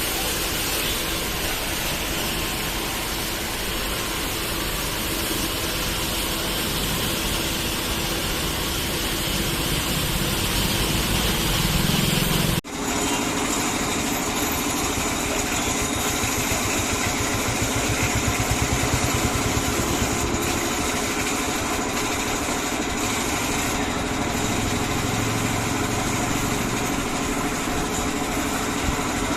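Steady machine running with a hissing water spray, as from a car-wash high-pressure washer. The sound drops out abruptly for an instant about twelve seconds in, then carries on.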